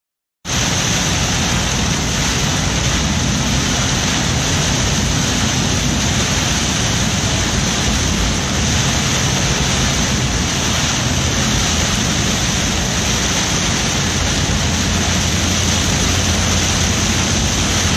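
Heavy hurricane rain and wind beating on a moving car, with the rumble of the car on the road, in one loud, unbroken roar.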